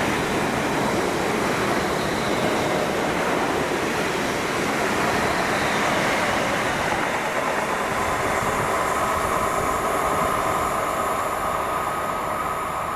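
A fast passenger train running through the station without stopping: a loud, steady rush of wheels on rail and air. A steady high tone joins in about two-thirds of the way through, and the sound begins to fade near the end.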